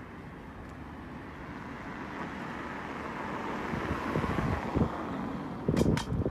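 A car passing on the road, its tyre and engine noise swelling to a peak partway through and then fading. Gusts of wind buffet the microphone in low thumps near the end, with a couple of sharp clicks.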